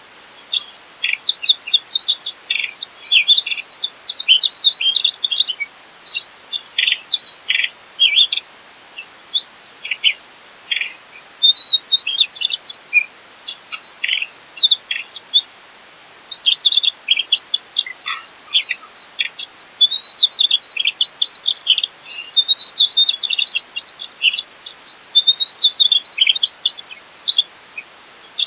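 Mugimaki flycatcher singing a long, fast, continuous run of high chirps, trills and short whistles, with only brief breaks.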